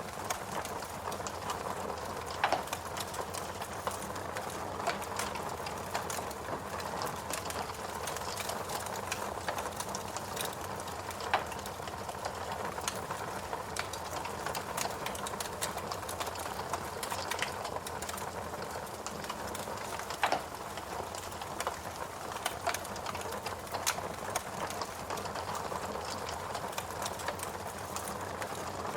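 Fireplace crackling: a steady hiss with many small irregular crackles and a few louder pops.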